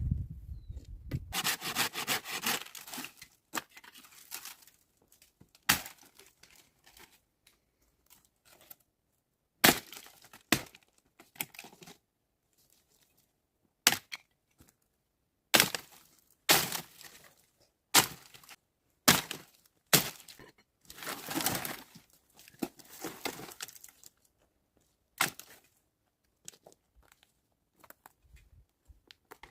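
Dry wood being broken up: a string of sharp, irregular cracks and snaps, with a couple of longer splintering, scraping stretches.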